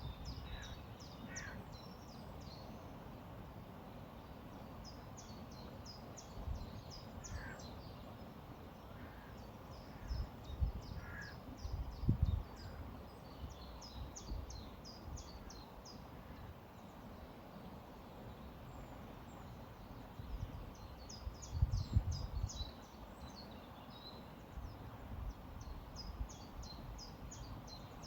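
Steady rush of a flowing river, with small birds singing in quick runs of high chirps every few seconds. A few low thumps a third of the way in and again past the two-thirds mark are the loudest moments.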